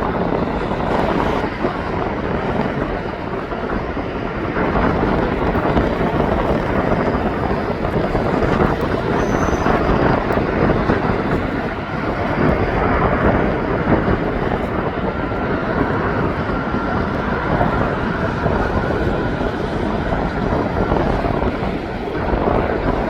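Jet airliner engines running, a loud, steady rush of noise that holds level throughout, with a faint high whine coming in during the second half.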